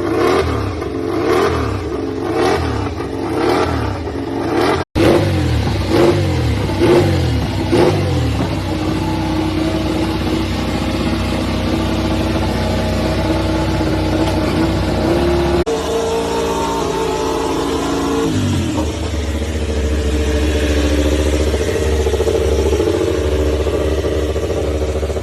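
MotoGP racing motorcycle engines at high revs. They accelerate hard with the pitch climbing and snapping back again and again as they shift up through the gears, then hold a steady high note. Near the end the note drops to a deeper, steady drone.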